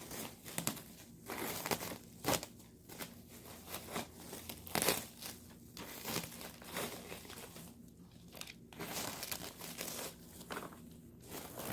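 Packing material crinkling and rustling in irregular bursts as it is handled and pulled out of a box.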